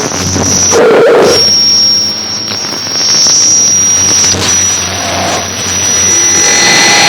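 Harsh noise music: a loud, dense wall of hiss and distortion with a high, steady whistling tone over it, cut off and restarted abruptly a few times.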